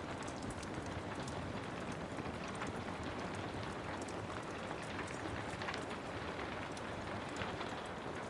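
Steady rain falling, with a wood fire crackling: many small sharp pops and snaps scattered over the hiss.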